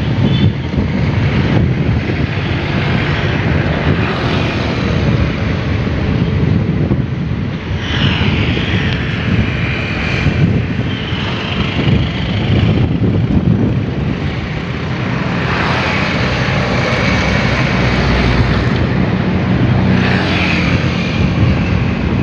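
Diesel engines of long-arm excavators running steadily under dredging work, a continuous low drone with a rougher, rising and falling noise above it.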